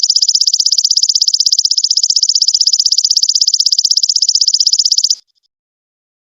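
Golden locust (belalang emas) song: a loud, high, fast and even pulsed trill that stops about 5 seconds in.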